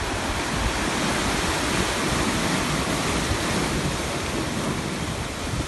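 Sea waves washing on the shore: a steady rush of surf that swells slightly in the middle.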